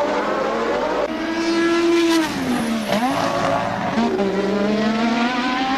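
Formula One car engine from the 1988 season at high revs. The note drops sharply about three seconds in as the car slows, then rises again as it accelerates away.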